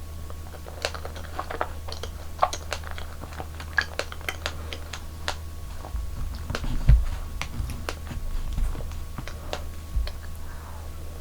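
Close-miked tabletop handling in a dessert-eating ASMR: a run of sharp irregular clicks and taps, with a few dull thumps about six to ten seconds in.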